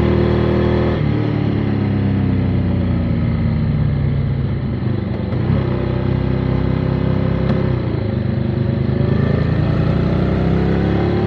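Motorcycle engine heard while riding, its note sinking as the bike slows over the first few seconds. It jumps up in pitch about halfway through, drops back a couple of seconds later, then rises steadily as the bike accelerates near the end.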